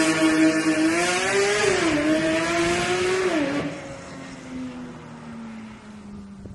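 Car engine accelerating hard, the revs climbing and dropping sharply at two upshifts about two and three and a half seconds in, then fading away with its note falling slowly.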